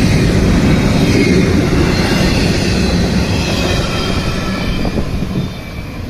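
Freight train of empty double-stack well cars rolling past on the rails: steady wheel rumble and clatter, with faint wavering high wheel squeal. It fades about five seconds in as the last car passes and the train moves away.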